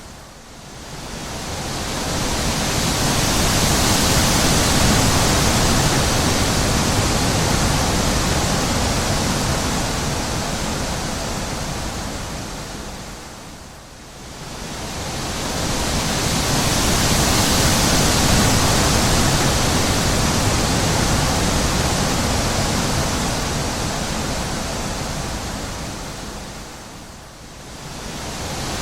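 Wind blowing in even, regular gusts, each swelling to a peak and dying away about every fourteen seconds, with a lull about halfway through and another near the end.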